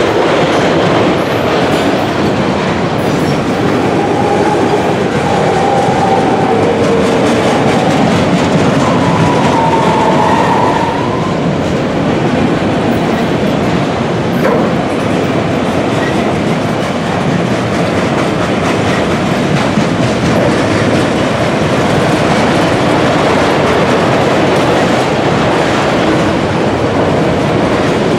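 Freight train of multi-level autorack cars rolling steadily past close by: a loud, even rumble and clatter of steel wheels on the rails. A few faint, brief squeals come in between about four and eleven seconds in.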